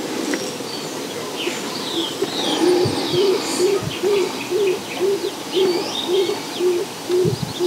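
Birds calling: a low note repeated evenly about twice a second starts a couple of seconds in, with short high chirps from small birds above it.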